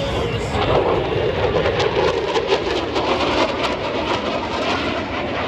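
F-16 fighter jet making a low pass, its engine a loud, rough, crackling roar that peaks in the first few seconds and eases off toward the end.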